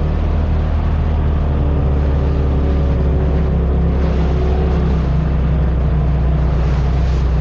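Polaris RZR side-by-side engine running steadily while driving along a dirt trail, with a constant low drone.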